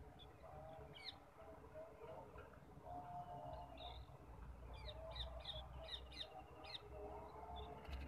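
Faint bird chirps: a couple of short high calls about a second in, then a quick run of chirps in the second half, over a low background rumble.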